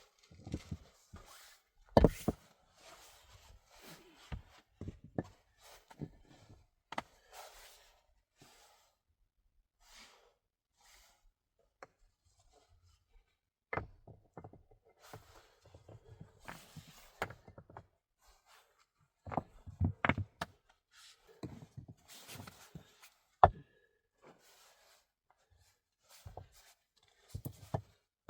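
Irregular knocks and taps with patches of rustling between them; the sharpest knocks come about two seconds in and again near the end.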